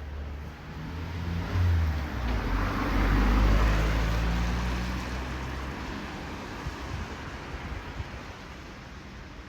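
A road vehicle passing close by on a wet street. Its engine hum and tyre hiss swell to a peak about three seconds in, then fade away as it moves off.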